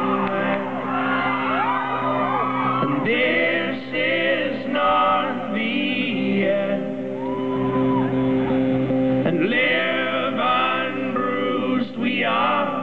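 Live band music: several voices singing in harmony over a sustained chord.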